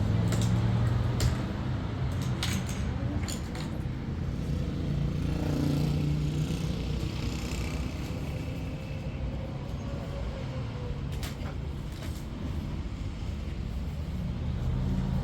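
A motor vehicle running steadily, a low rumble, with a few sharp clicks.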